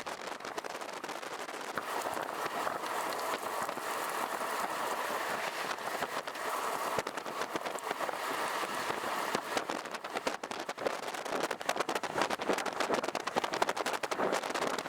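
Rain striking the vehicle: a steady hiss full of sharp ticks, growing denser and louder in the last few seconds.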